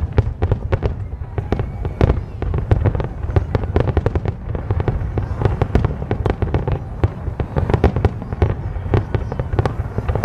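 Fireworks display with many shells bursting in quick succession: a dense, unbroken stream of bangs and crackles over a steady low rumble.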